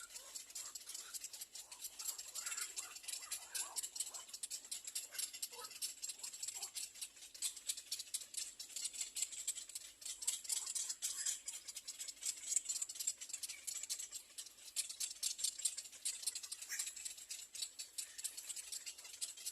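Little egret nestlings begging for food: a continuous, rapid rasping rattle with a few short higher calls mixed in.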